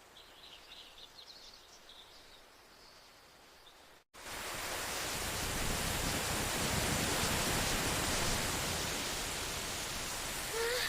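Faint high chirping over a quiet background, then, after a sudden cut about four seconds in, the steady loud hiss of a heavy rain downpour.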